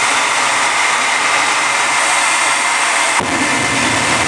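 Jet truck's jet engines running loud and steady with a high whine. About three seconds in, the sound changes abruptly and a low rumble joins in.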